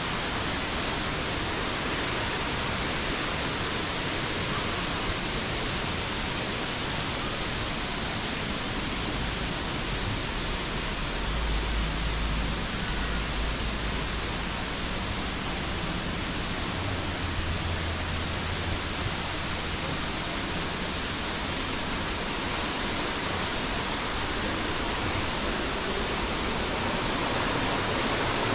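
Steady rushing roar of a large waterfall, close by, with a few low rumbles on the microphone about a third and two thirds of the way through.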